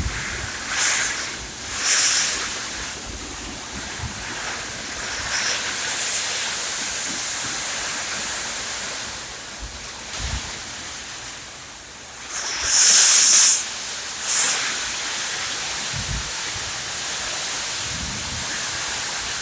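Heavy rain falling as a steady hiss, with a few short louder surges, the loudest about thirteen seconds in.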